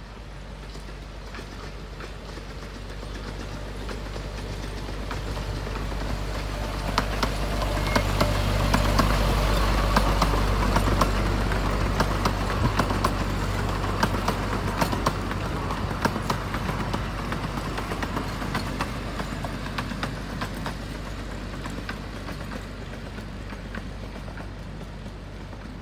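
Miniature train passing by: the small diesel-style locomotive's engine hums steadily, growing louder as the train comes close and fading as it moves away, with sharp clicking and clacking of the wheels on the track while the cars go past.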